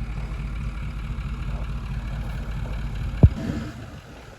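Toyota Land Cruiser engine running with a steady low rumble while it strains to pull down a tree, with one sharp thump a little after three seconds in; the engine sound falls away soon after.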